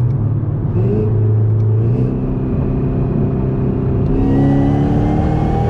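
2019 Camaro ZL1's supercharged 6.2-litre V8 driving the car: a steady low drone at first, then engine notes that climb slowly as it accelerates. A hiss joins about four seconds in.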